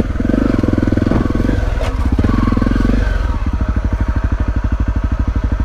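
Motorcycle engine running at low revs with an even pulsing beat, opened up briefly twice in the first three seconds.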